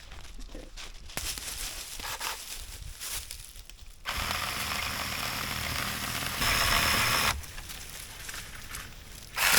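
Electric chainsaw running and cutting wood, starting about four seconds in, getting louder for about a second, then easing off; before it, light crackling and rustling.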